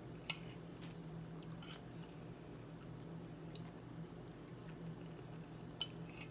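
A person quietly chewing a mouthful of cooked pig ear and jerk rice, with a few short, faint clicks and a low steady hum underneath.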